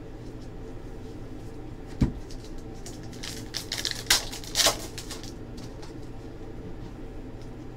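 Trading cards being handled, sliding and rustling against each other, with a single knock about two seconds in and two louder swishes between four and five seconds, over a steady low hum.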